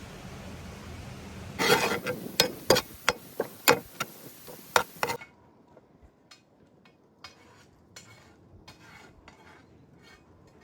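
Kitchen utensils clinking against cookware: a quick run of sharp clinks starting about one and a half seconds in, then fainter, sparser clicks.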